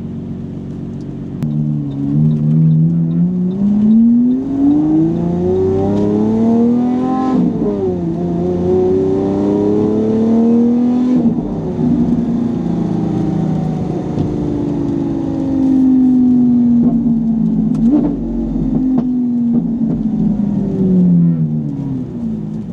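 Car engine accelerating through the gears: its pitch climbs steadily, drops sharply at a gear change about seven seconds in, climbs again, then holds and slowly falls as the car eases off near the end.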